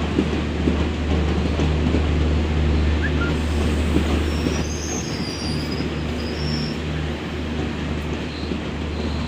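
Passenger train coaches rolling past a station platform: a steady rumble of wheels on the rails with a few sharp knocks, and a high wheel squeal for about two seconds around the middle.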